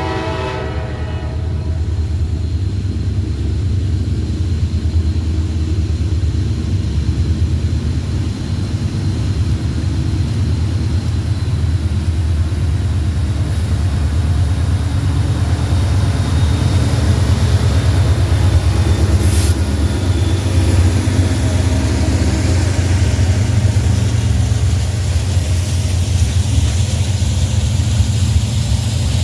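Freight train passing, its horn chord cutting off about half a second in, followed by a steady, loud low rumble of the train rolling by.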